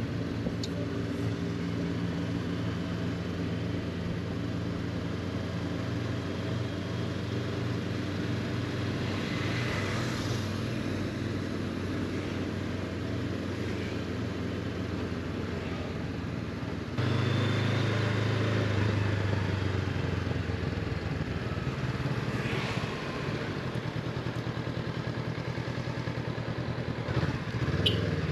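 Honda CB500X's parallel-twin engine running steadily as the motorcycle is ridden, with road and wind noise; the engine note gets louder about two-thirds of the way through.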